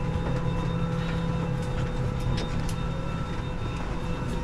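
Steady hum inside an Airbus A320 cabin on the ground before departure: the air-conditioning airflow and the aircraft's systems drone evenly with a few constant whining tones. A few faint clicks come in the middle.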